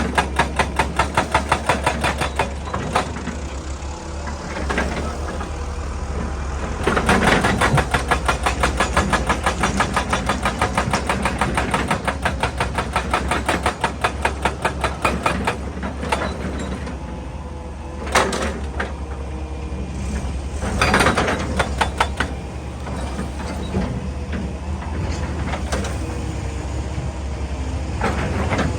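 Excavator-mounted hydraulic breaker hammering rock in rapid, even blows, several a second, in bouts with short pauses, over the steady running of the excavator's diesel engine.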